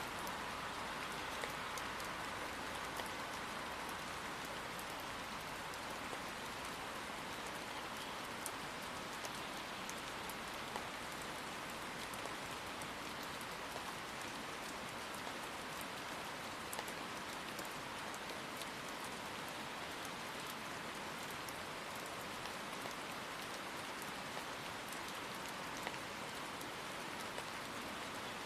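Steady rain falling: a dense, even hiss with scattered sharper ticks of single drops landing close by.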